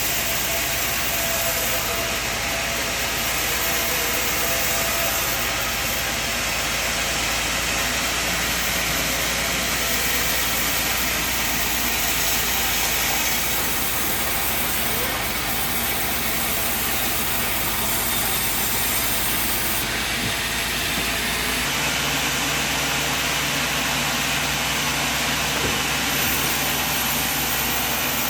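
Sawmill machinery running with a steady, dense noise and no pauses; the low hum changes about 22 seconds in.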